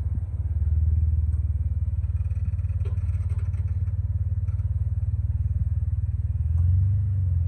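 Jeep Wrangler engine running at low revs as it crawls over rock, with a steady even pulse. The revs rise briefly near the end.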